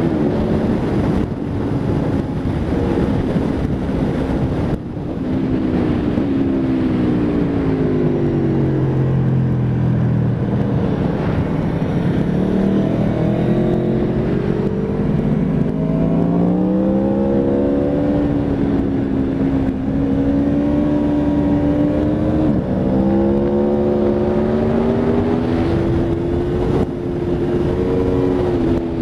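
Aprilia Tuono V4 RR's V4 engine at track speed, heard onboard over steady wind rush. The engine note falls for several seconds under braking and downshifts, then climbs again under acceleration, stepping with gear changes.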